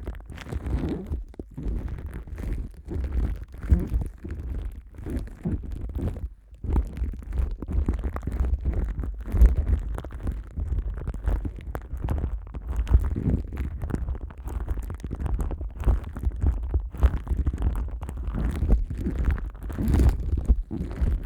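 Plastic wrap stretched over the ears of a dummy-head binaural microphone, rubbed and crinkled by hand right at the ears: a steady run of muffled, dull rubbing and crinkling strokes, with a brief lull about six seconds in.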